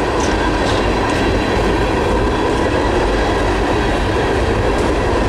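Loaded Herzog ballast hopper cars of a freight train rolling past on the track: a steady rumble of wheels on rail, with a few faint clicks near the start.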